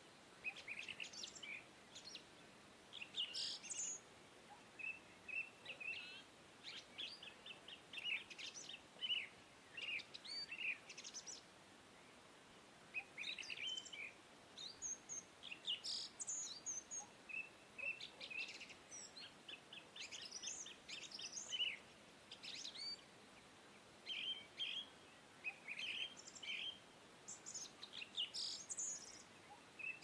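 Small birds chirping and singing in short, quick, high phrases with brief pauses between them, over a faint steady background hiss.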